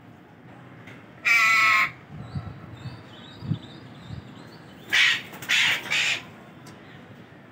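Parrots calling: one loud, harsh squawk about a second in, a few soft high chirps, then three harsh screeches in quick succession about five seconds in.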